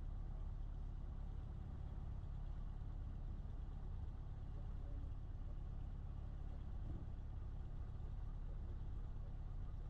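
Cessna 152's Lycoming O-235 four-cylinder aircraft engine running steadily at low taxi power, a low, even rumble.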